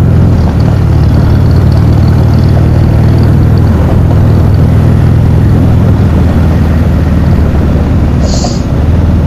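Steady loud rumble of engine and wind from a road vehicle cruising at speed, with a brief hiss about eight seconds in.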